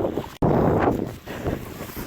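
Wind buffeting the microphone aboard a small boat, in uneven gusts, briefly cutting out just under half a second in.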